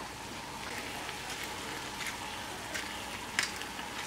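Cauliflower and melted cheese sizzling steadily in a frying pan, with a few sharp ticks, the loudest about three and a half seconds in.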